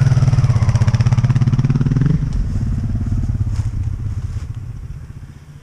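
Honda Africa Twin's V-twin engine running close by at steady throttle. About two seconds in the note drops and the engine fades away as the bike rides off along the muddy track.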